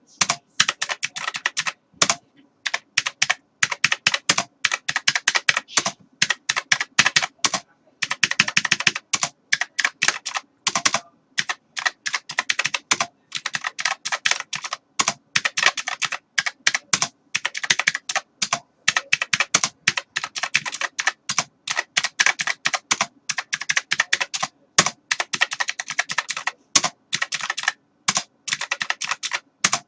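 Computer keyboard being typed on steadily: fast, irregular runs of key clicks broken by short pauses.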